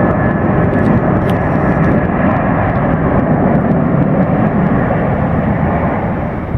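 Jet airliner engines: a loud, steady rush of engine noise, easing slightly near the end.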